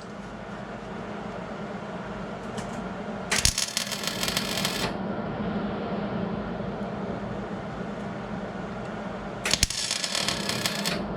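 Two short bursts of arc-welding crackle, each about a second and a half long, from tack welds on a sheet-steel patch panel, over a steady low hum.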